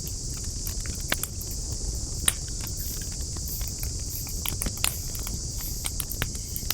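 Campfire of burning wood crackling, with irregular sharp pops, the sharpest about two seconds in, over a low rumble and a steady high hiss.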